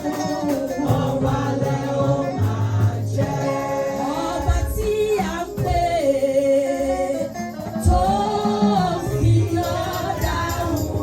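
Gospel worship music: group singing with instrumental backing, at an even level throughout.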